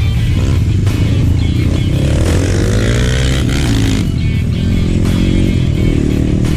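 Trail motorcycle engine running under way, its pitch rising and falling around the middle, with background music over it.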